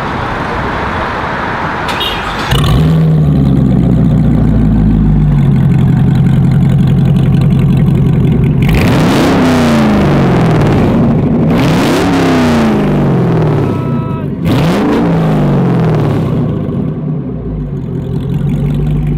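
Devel Sixteen prototype's engine starts with a sudden jump in loudness about two and a half seconds in and idles. It is then revved three times, each rev rising and falling in pitch, before settling back to idle. The sound is so aggressive that it pops the ears inside the cabin.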